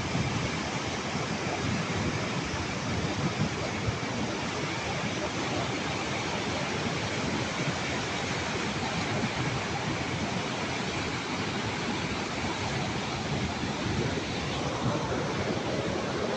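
Floodwater rushing steadily, a dense, unbroken noise of a fast-moving flood current, with a faint rising tone near the end.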